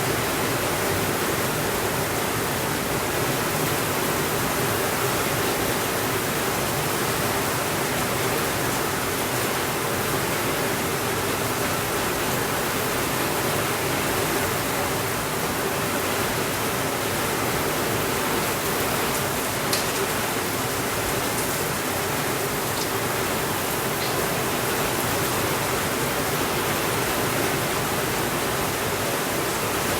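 Heavy rain falling steadily on a window, an even hiss, with a few faint ticks past the middle.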